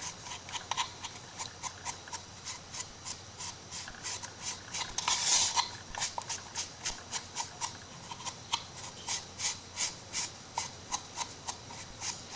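A craft sponge rubbed in quick, repeated short strokes along the edges of a craft piece to distress them, a soft scratchy rasp about two to three strokes a second, with one longer, louder stroke about five seconds in.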